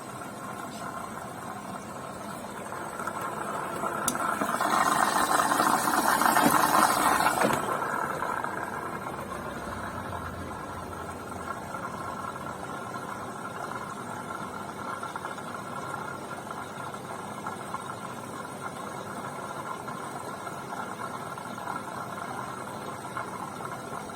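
BEKO washing machine running with a steady mechanical hum. A louder surge swells up about four seconds in and dies away about three seconds later.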